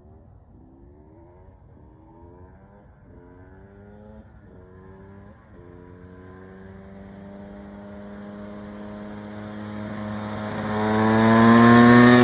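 KTM EXC 300 single-cylinder two-stroke motorcycle approaching. At first it revs in short rising sweeps about once a second, then it holds a steadier, slowly climbing pitch. It grows steadily louder and is loudest near the end as it reaches the pass.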